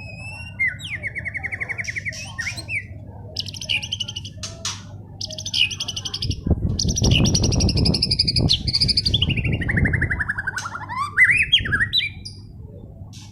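White-rumped shama (murai batu) singing a long, varied song of rapid trills, buzzy phrases and whistles, some falling and some rising in pitch. A low rumbling noise sits under the song for a few seconds in the middle.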